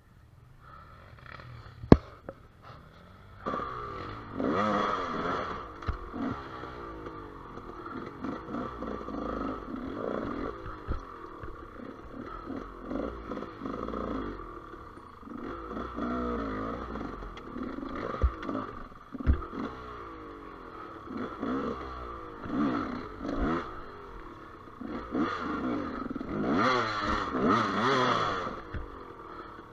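Gas Gas EC200 two-stroke enduro motorcycle engine revving up and down in repeated bursts, with knocks and clatter. A sharp knock comes about two seconds in, and the engine comes in strongly about three and a half seconds in.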